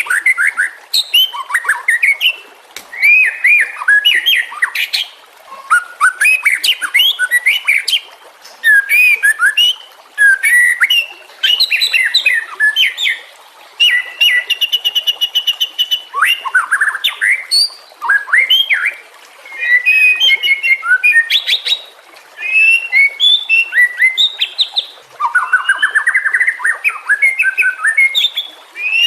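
White-rumped shama (murai batu) singing: a varied run of loud whistled phrases, rising and falling notes, fast trills and high chattering clicks, in bursts of one to three seconds with short pauses between.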